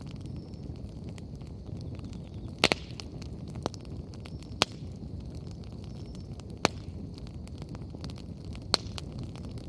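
Wood fire burning with a steady low rumble, sharp crackling pops about every two seconds and many fainter ticks in between.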